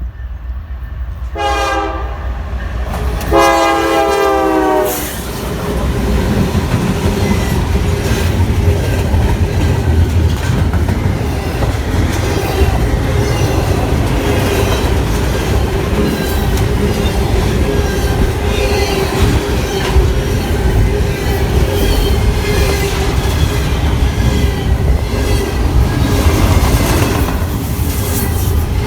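Freight train horn blowing two blasts, a short one then a longer one, as a fast mixed freight reaches the crossing. Then the train passes close by at speed: a steady heavy rumble with a constant whine and clickety-clack from the wheels.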